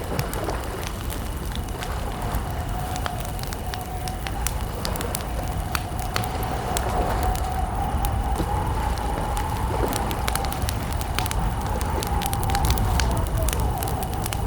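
Campfire burning, with many sharp crackles and pops over a low steady rumble. A thin wavering whistle runs through most of it, fading near the end.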